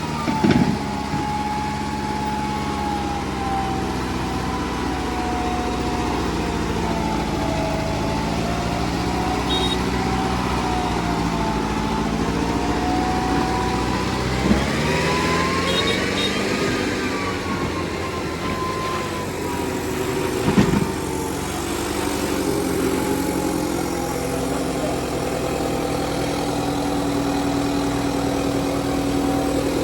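Kubota 5501 tractor diesel engines running under load in a tug-of-war pull. The engine pitch sags, climbs to a peak about halfway through, then drops again, with a few sharp knocks.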